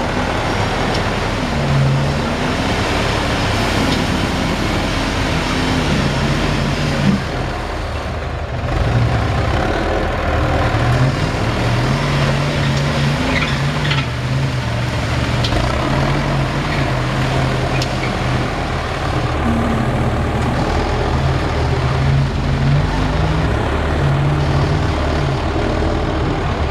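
Big Dodge mud truck's engine running loud and revving, its pitch rising and falling again and again.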